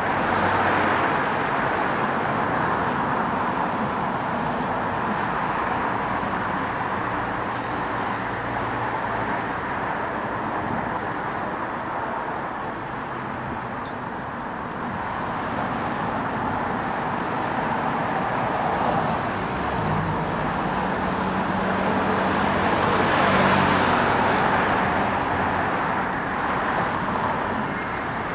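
Steady road traffic, cars passing one after another. A louder pass comes near the end, with a low engine hum as the vehicle goes by.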